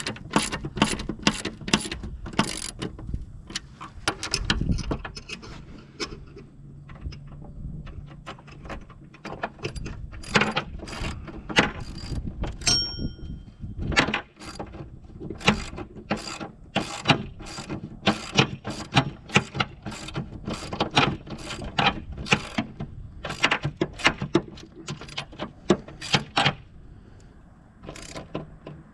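Wrench work on the bolts of a steel finish-mower deck: a long run of sharp metallic clicks, about two or three a second, with a brief ringing ping about thirteen seconds in.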